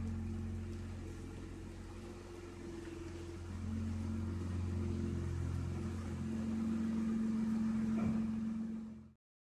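Holden VT Commodore's engine running at low revs as the car reverses slowly, a steady low hum that grows louder as it closes in. The sound stops abruptly about nine seconds in.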